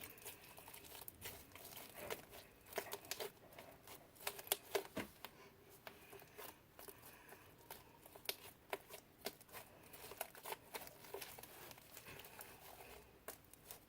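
Homemade glue slime being squeezed and pulled by hand, giving faint, irregular sticky clicks and crackles.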